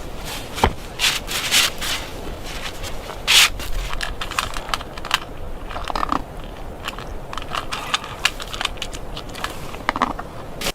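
Irregular scraping and crunching strokes, some sharp and loud, over a steady background hiss. The sound cuts off suddenly near the end.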